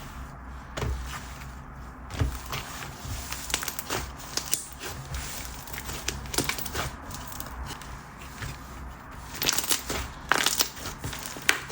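Slime being squished and stretched by hand, making irregular small clicks and pops, with a louder cluster of pops near the end.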